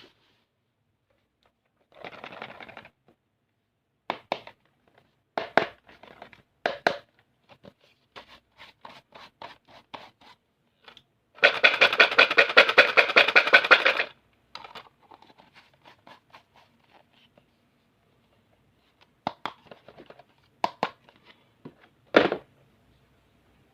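Stationery items and their packaging being handled: scratches, clicks and some tearing of plastic and paper. Near the middle comes a loud run of rapid scratching strokes lasting about two and a half seconds.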